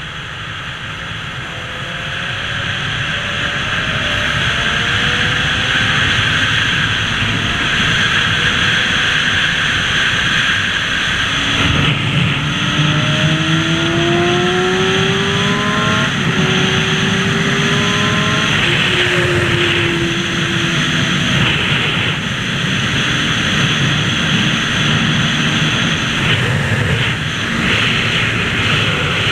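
Motorcycle engine accelerating through several gears, its pitch rising and dropping back at each shift, over a steady rush of wind.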